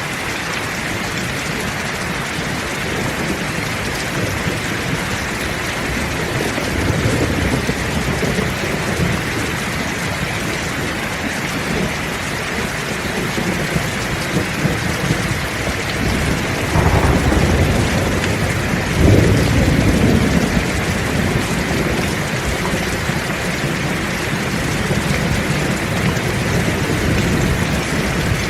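Heavy rain falling steadily, with rolling thunder rumbling low twice: a soft roll about a quarter of the way in and a louder, longer one past the middle.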